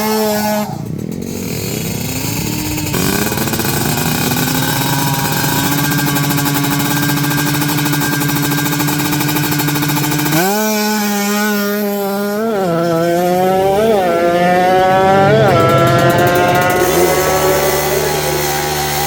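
Drag-racing motorcycle engines held at high revs, then launching at about ten seconds in. The engine pitch climbs and drops back several times in quick succession as the bike shifts up through the gears, then rises steadily in a long final gear.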